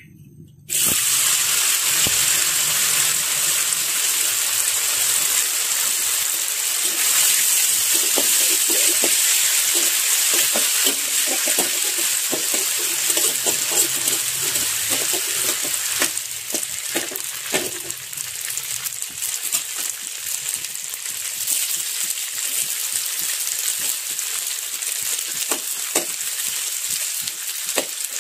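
Strips of yellow tofu sizzling in hot oil in a wok, starting suddenly about a second in as they hit the oil, with a metal spatula clicking and scraping against the wok as they are stirred. The sizzle eases a little past the middle.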